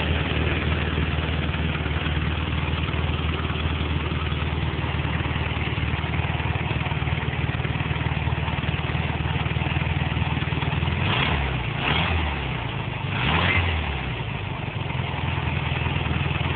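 VW Beetle 1600 cc air-cooled flat-four engine with a Kadron 40 carburettor idling steadily. Late on, it is blipped three times in quick succession, the revs rising and falling each time before it settles back to idle.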